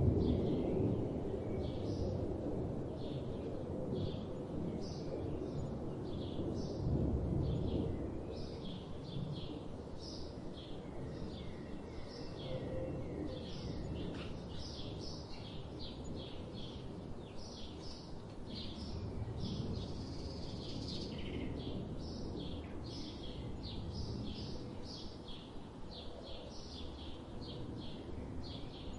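Songbirds chirping in many short, high calls that repeat without pause, over a steady low rushing background that swells now and then.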